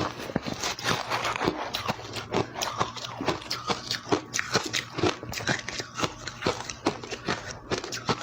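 Close-up chewing of crushed, powdery ice: a fast, continuous run of sharp crunches, several every second.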